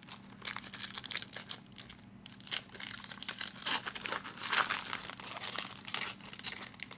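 Crinkling and tearing of a hockey card pack's wrapper being ripped open and handled, in irregular crackles.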